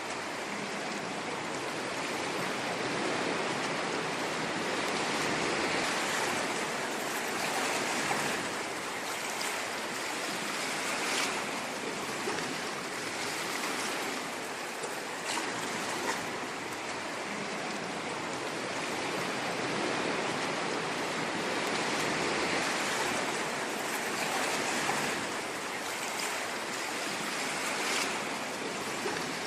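Ocean surf washing on a shore: a steady rush of water that swells and eases every few seconds, with small sharp crackles here and there.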